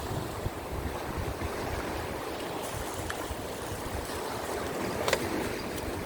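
Rough sea waves surging and breaking against the rocks, with strong wind buffeting the microphone. A sharp click about five seconds in.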